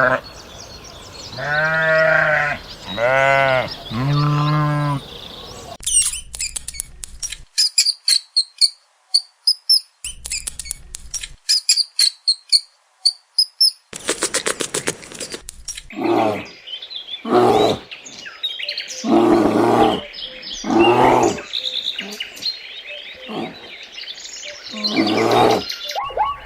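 Several animal sounds in turn. First, three bleats. Then high bird chirps with quick ticking from about six to fourteen seconds in. Then a run of loud repeated animal calls, about one every second and a half, to the end.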